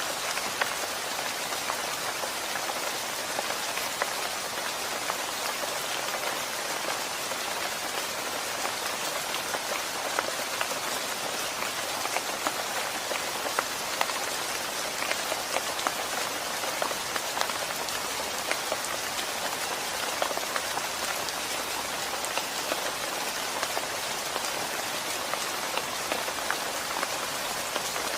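Steady rain falling: an even hiss with many small drop taps, unchanging throughout.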